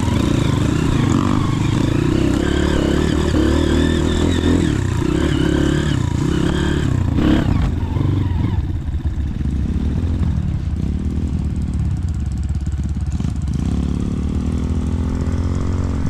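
Motorcycle engine revving hard under load for about seven seconds, then dropping to a lower, steadier run, and picking up again near the end.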